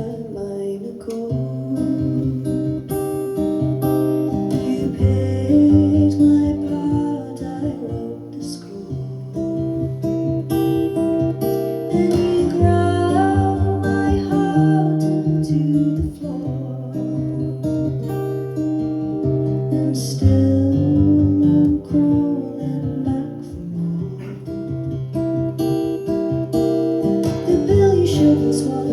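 Live folk song on acoustic guitar, plucked and strummed in changing chords, with a voice singing over it at times.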